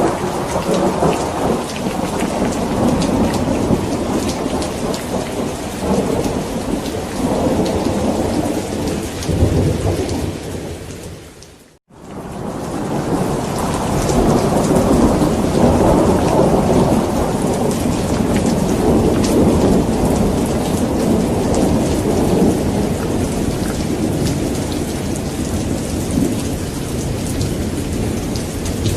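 Heavy rain falling through a thunderstorm, with thunder rumbling and rolling in long swells. About twelve seconds in, the sound fades almost to silence for a moment, then swells back in.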